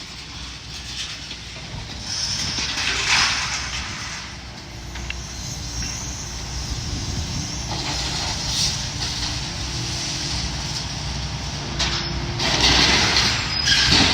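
Demolition excavator's engine running steadily under load, with loud stretches of scraping and crunching as steel beams and debris are pulled from the building, about three seconds in and again near the end.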